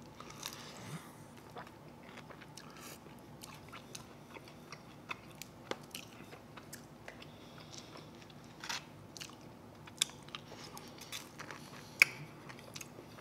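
A person biting and chewing bone-in chicken wings: soft wet chewing broken by scattered sharp clicks and crunches, the loudest near the end.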